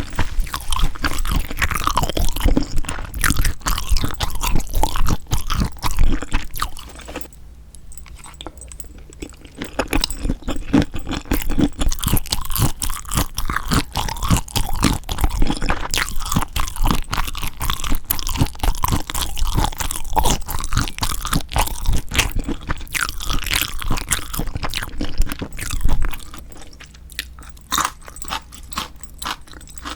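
Close-miked chewing and crunching while eating spicy seasoned marinated raw shrimp (yangnyeom saeujang), with a dense run of wet clicks and crunches. It eases off twice, about seven seconds in and again near the end.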